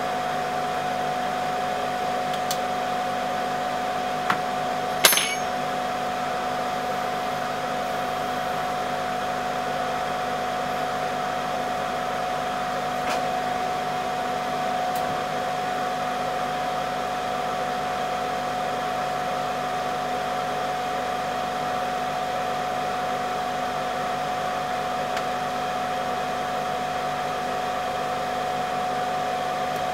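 Electric air blower running steadily with a constant hum tone, cooling the laptop's graphics chip after reflow. A small click about four seconds in and a sharper one about a second later.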